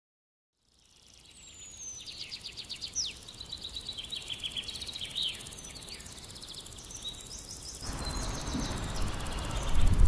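Birds chirping and trilling, short high calls and rapid repeated notes over a steady background hiss. About eight seconds in, a louder low background rumble joins.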